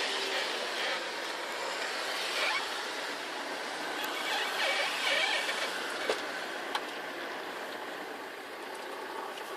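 Steady outdoor background noise, an even hiss with no clear single source, broken by two short sharp clicks a little after six seconds in.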